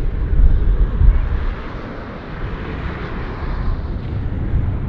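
Strong wind buffeting the microphone in gusts, a heavy low rumble that is strongest in the first second or so and then eases, with a rushing hiss of road traffic swelling and fading around the middle.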